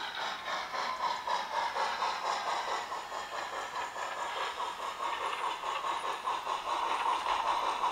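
Model steam locomotive running, with quick, even chuffing and steam hiss.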